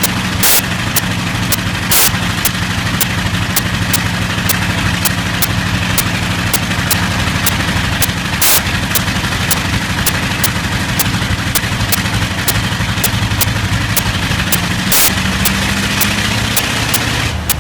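Bristol Hercules sleeve-valve radial aero engine running steadily, with sharp ticks about twice a second and a few louder pops at uneven intervals, the sign of a slight misfire.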